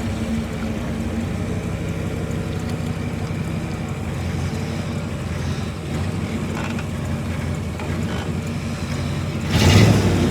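Chevy Z71 pickup's V8 running through a Flowmaster exhaust as the truck drives, with a brief louder surge about nine and a half seconds in.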